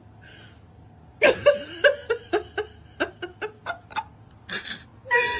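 A person laughing in a run of short bursts that fade away, followed by a breathy exhale near the end.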